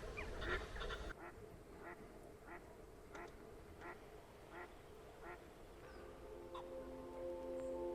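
A waterbird calling over and over, short sharp calls about every 0.7 seconds. Soft music with held notes fades in near the end.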